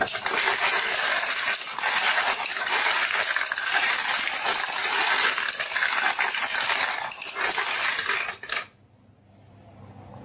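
Many marbles clattering continuously down a marble run, a dense rattle of small hard clicks that cuts off suddenly near the end.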